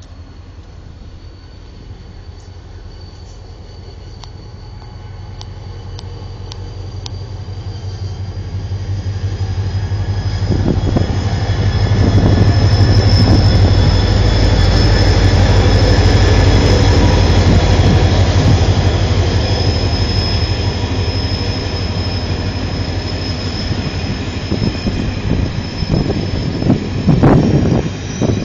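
ONCF passenger train passing close by: a deep rumble that builds up over about twelve seconds and stays loud, with a high-pitched steady wheel squeal over it.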